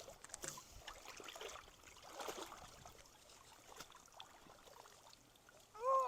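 Creek water trickling and flowing through a log clog, with scattered small knocks and splashes as the debris is worked. Near the end a short pitched sound rises and falls, then a louder burst of splashing water.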